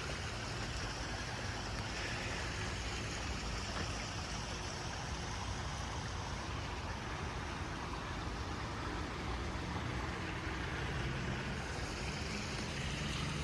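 Small creek flowing over stones: a steady rush of water, with a faint low hum underneath.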